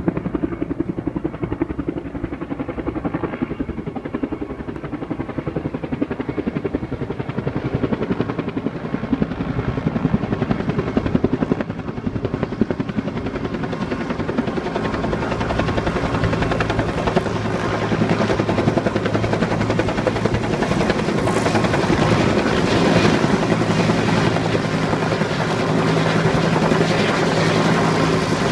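Bell UH-1 Huey helicopter running close by: the rapid beat of its two-bladed main rotor with steady turbine and engine tones underneath. It grows louder about halfway through.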